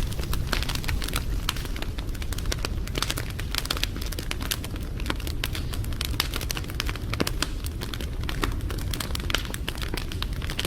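Wood fire crackling, with many irregular sharp snaps and pops over a steady low rumble of burning.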